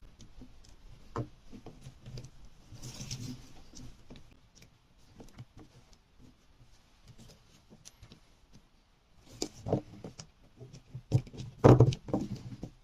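Hands opening and handling packaged soap bars: scattered light taps and clicks, a brief rustle about three seconds in, and a run of louder knocks near the end.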